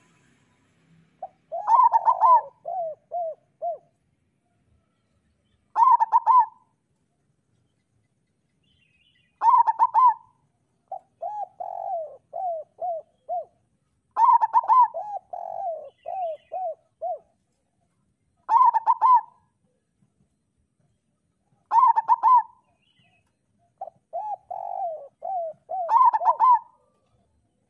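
Zebra dove (local perkutut) cooing: a song phrase every few seconds, each a quick run of higher notes followed by a string of shorter, lower coos.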